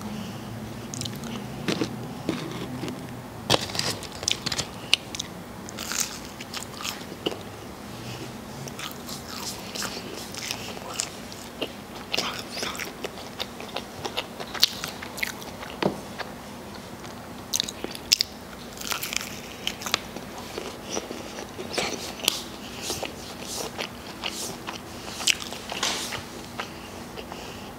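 Close-up chewing of crispy fried chicken nuggets, with many irregular crisp crunches.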